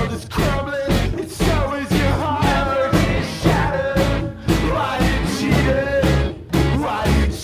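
A rock band recording playing at full tilt: a sung vocal line over drums and bass with a steady, driving beat.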